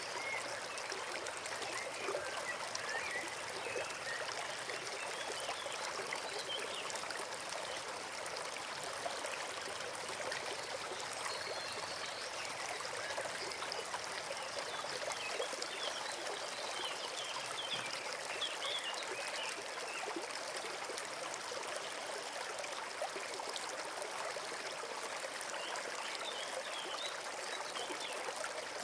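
Small forest brook flowing steadily, an even trickling rush of water.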